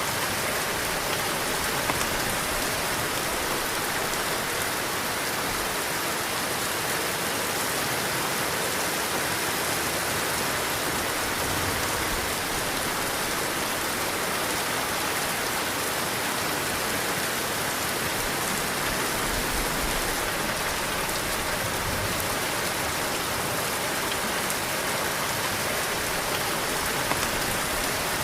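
Heavy rain falling steadily, a dense even hiss of drops on surfaces, with faint low rumbles here and there.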